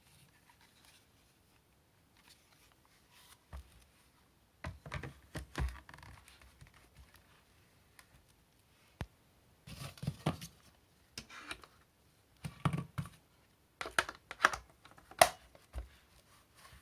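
Handling noise: scattered sharp clicks and knocks with some rustling between them, in irregular clusters. No motor is running.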